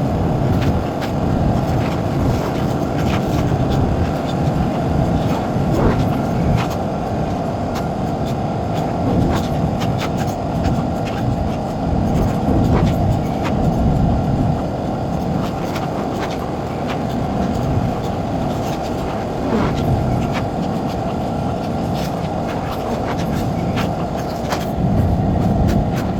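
A vehicle running with a steady low rumble, with scattered light clicks and knocks.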